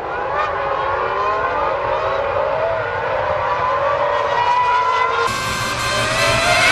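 Several Formula One V10 engines running at speed together, their pitches rising and falling as the cars change gear and pass. The sound changes abruptly a little over five seconds in.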